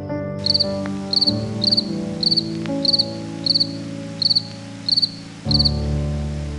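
An insect chirping in short, high, pulsed chirps about twice a second, typical of a cricket, over soft background music with long held notes.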